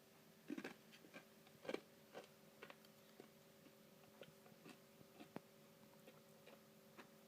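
Faint close-up chewing and crunching of a mouthful of Dairy Queen Cotton Candy Blizzard. A few louder crunches come in the first two seconds, then softer chews about every half second.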